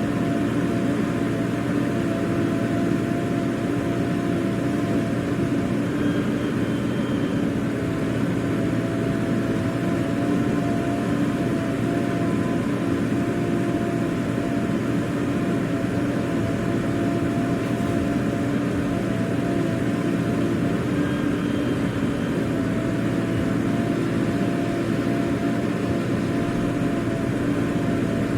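Diesel engine running steadily at an even pitch and level, without revving up or down.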